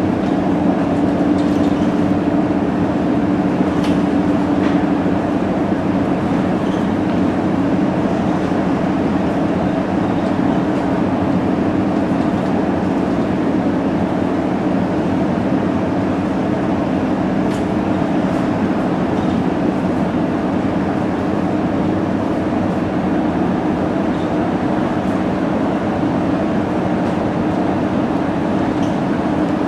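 Scania K230UB city bus's diesel engine and drivetrain running with a steady drone. A held low tone is strongest for the first few seconds, then eases slightly.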